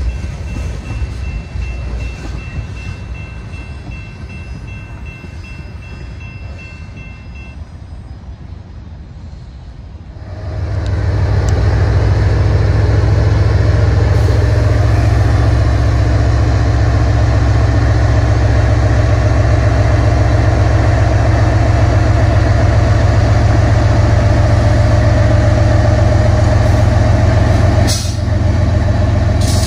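Train with diesel locomotives on a BNSF main line: a moderate rumble as it approaches, then a sudden rise about ten seconds in to a loud, steady, deep rumble as it passes close. Near the end there is a brief dip and a couple of sharp clicks.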